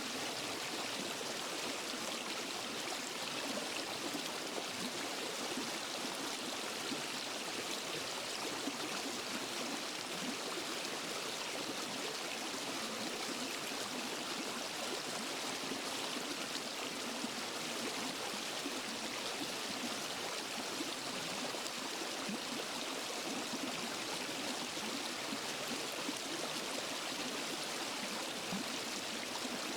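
Waterfall and forest stream rushing and splashing in a steady, unbroken wash of water noise.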